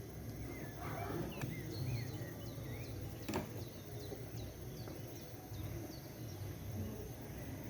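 Small birds chirping in short repeated calls over a low steady background rumble, with a single sharp click about three seconds in.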